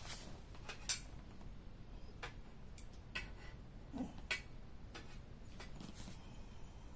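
Campfire wood crackling: irregular sharp pops and snaps, the loudest about a second in.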